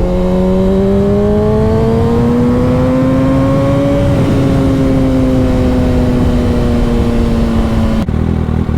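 Motorcycle engine heard from the rider's seat, pulling up through the revs for about four seconds, then easing off slowly as the throttle is held back. A steady rush of riding noise lies underneath, and the sound changes abruptly near the end.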